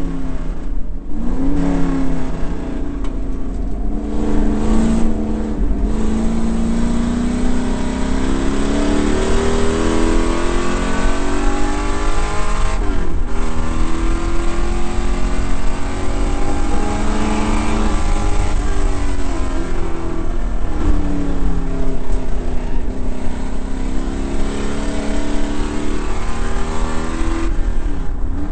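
V8 engine of a 1968 Ford Mustang race car, heard from inside the cabin, revving hard and climbing in pitch again and again. Its note drops sharply at each gear change or lift for a corner.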